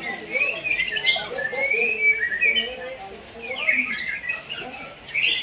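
Several caged songbirds singing and chirping over each other, in many short, overlapping warbled phrases.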